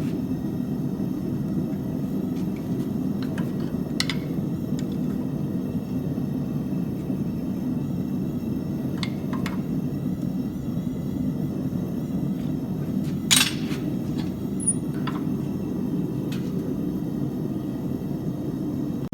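Steady low roar of a blacksmith's forge running, with a few sharp clicks and taps over it, the loudest about 13 seconds in.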